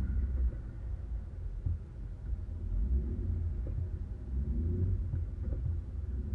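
A 4x4's engine running at low revs under a low rumble, its pitch rising and falling briefly about three seconds in and again around five seconds in.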